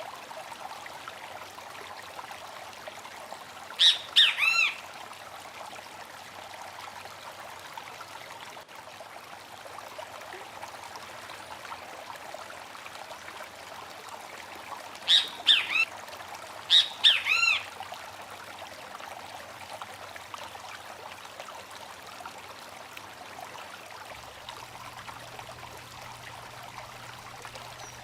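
A small stream trickling steadily, with short bird calls breaking in three times: once about four seconds in, then twice close together about halfway through. Each call is a quick group of sliding notes.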